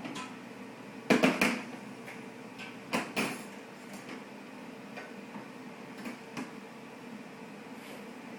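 Knocks and rattles of a dishwasher's door and racks as a baby climbs on them. There are two clusters of sharp clattering knocks about two seconds apart, then a few lighter taps, over a steady low hum.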